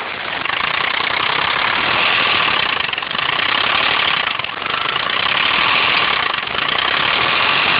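Alfa Romeo 164L engine running just after start-up, its level rising and falling a few times; the owner takes the noise for a knocking piston rod.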